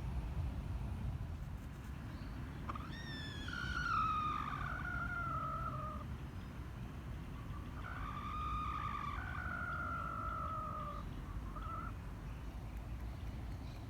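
Short-tailed junglefowl giving two long, drawn-out calls a few seconds apart, the first sliding down in pitch, the second held fairly level and falling slightly at the end, followed by a brief short note.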